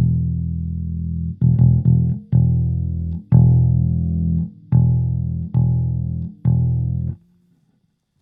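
Electric bass guitar played through a Fender Rumble 25 compact bass amp: a run of about eight plucked notes, most left to ring for around a second, the playing stopping about seven seconds in.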